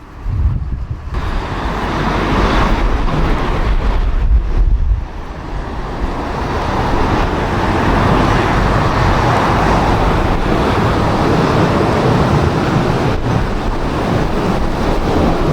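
Strong gusty wind buffeting the microphone, a heavy low rumble under a broad rushing roar that swells about a second in and again around eight seconds.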